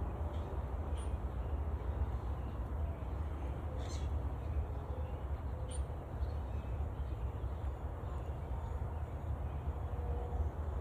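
Outdoor ambience: a steady low rumble with a few short bird calls about one, four and six seconds in.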